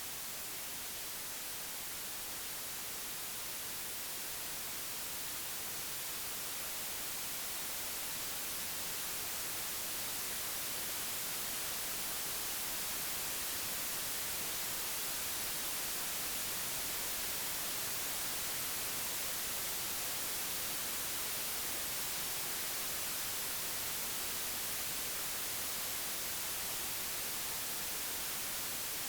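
Computer-generated white noise, a steady even hiss with no tones or events, slowly growing a little louder through the first half.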